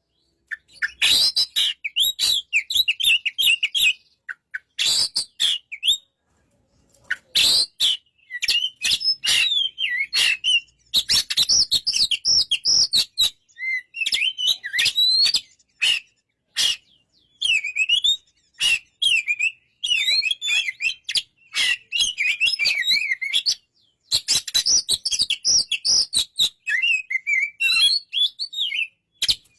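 Oriental magpie-robin (kacer) singing a rapid, varied chirping song in phrases, with a few short pauses between them.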